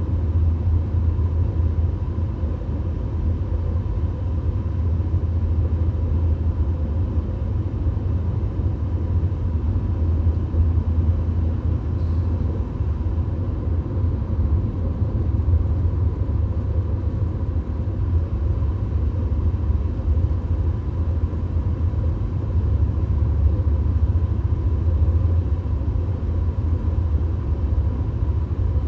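Steady low road and engine rumble inside a VW Golf cruising at highway speed, with a faint steady hum higher up.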